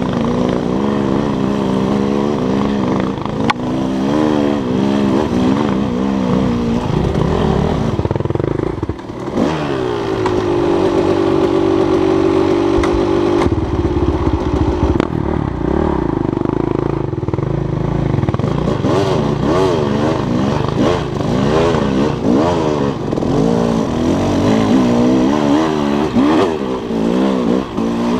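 Dirt bike engine running under load, its pitch repeatedly rising and falling as the rider opens and closes the throttle through the gears. About a third of the way in it holds a steadier pitch for a few seconds.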